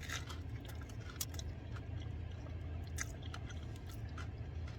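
A man chewing and biting into a toasted grilled cheese sandwich on sourdough, with short crunchy crackles scattered through, over a steady low hum.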